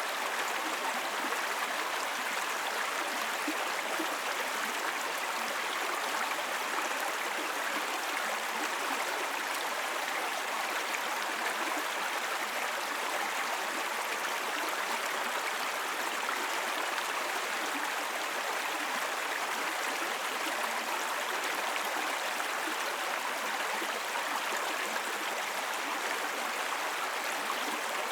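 Small brook babbling over rocks, a steady rush and gurgle of shallow running water.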